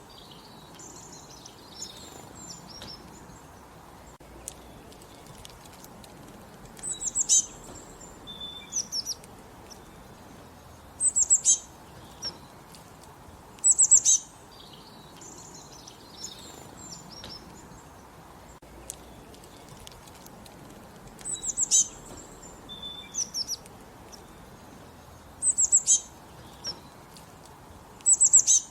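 Songbirds singing in the countryside: one bird repeats a short, high-pitched phrase of rapid notes about every three to four seconds, with softer chirps from other birds in between. A steady low background hiss runs underneath.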